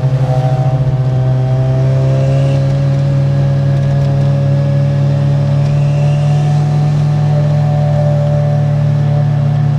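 Modified Mazda RX-7's 13B rotary engine running under light load. It throbs unevenly for about the first second, then settles into a steady, even note with only slight changes in pitch.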